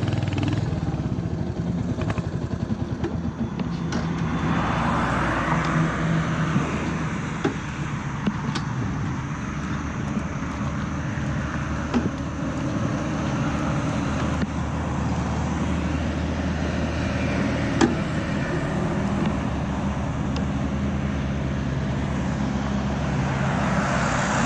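Royal Enfield Hunter 350's single-cylinder engine running steadily while riding, with a rush of wind and road noise. There are a couple of sharp knocks, about halfway and again about three-quarters through.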